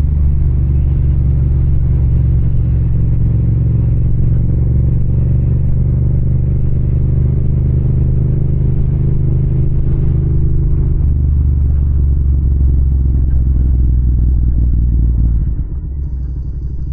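Yamaha MT-07 motorcycle running steadily at road speed, engine and wind making a loud low rumble; about fifteen seconds in it gets quieter as the throttle is eased off.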